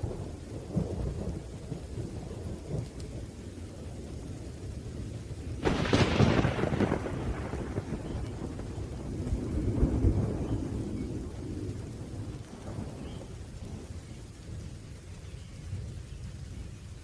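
Thunderstorm: steady rain under rolling thunder, with a sharp thunderclap about six seconds in that rumbles away, and another swell of thunder a few seconds later.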